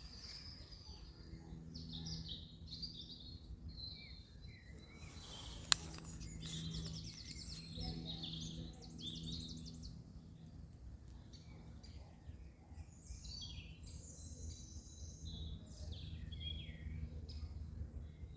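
Songbirds chirping and singing in short trills over a faint steady low hum, with one sharp click about six seconds in.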